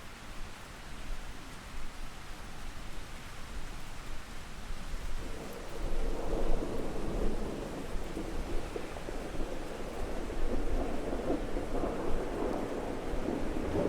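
Steady rain with a deep rumble underneath that swells and grows louder about five seconds in, then keeps rolling.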